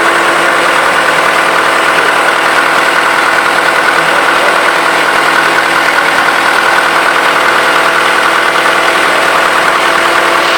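Perkins L4 four-cylinder four-stroke diesel engine running steadily at a constant speed, with an even, rapid diesel clatter.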